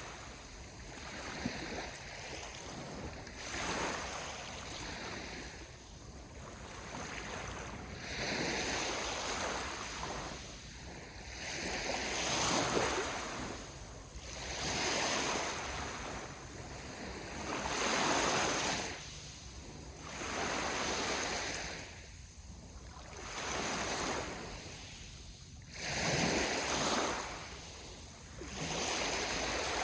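Sea waves washing onto the shore, one surge of surf about every three seconds, each swelling and falling away.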